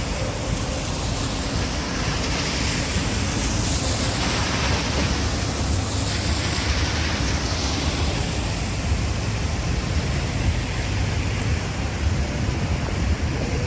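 Steady rush of heavy rain and wind, with low wind buffeting on the microphone; a louder hiss swells and fades a few seconds in.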